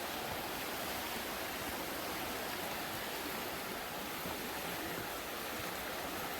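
Steady rush of a river flowing over rocks, running high after heavy rain.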